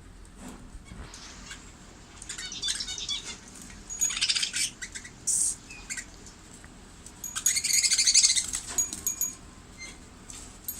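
Budgerigars chattering and chirping in several loud bursts, the longest near the end.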